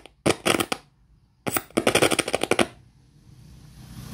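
Radio speaker giving two bursts of harsh crackling, the second longer, then a faint hiss.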